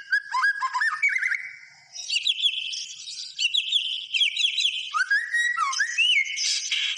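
White-rumped shama (murai batu) in full song: a fast, varied stream of clear whistles, quick slurred notes and chattering phrases, with a short break about two seconds in.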